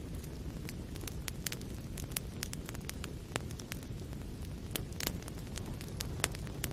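Wood fire burning in a fireplace: a steady low rumble of flames with irregular sharp crackles and pops of burning logs, a few louder pops about five and six seconds in.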